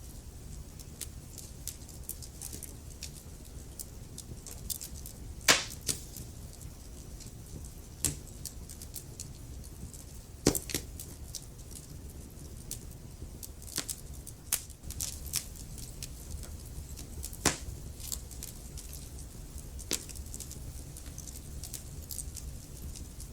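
Wood fire crackling in a fireplace: a low steady rumble of flames under irregular small crackles, with louder pops about five, ten and seventeen seconds in.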